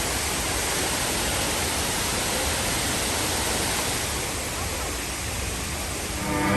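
Steady rushing roar of Shiraito Falls, a wide curtain of water pouring down a cliff.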